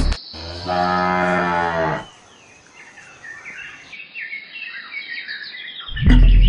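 A cow mooing once, a long low call lasting about a second and a half, followed by quieter chirping birds.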